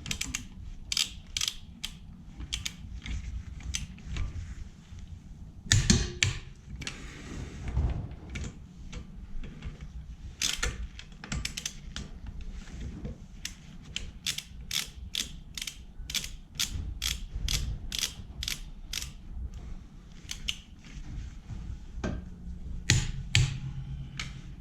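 Ratchet wrench clicking in runs of about two to three clicks a second while wheel fasteners are turned, with a couple of louder knocks from the tools.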